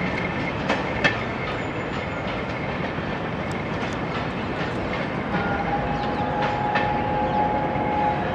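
A train of railway coaches rolling past, its wheels clicking over the rail joints. A steady whine joins about five seconds in and lasts to the end.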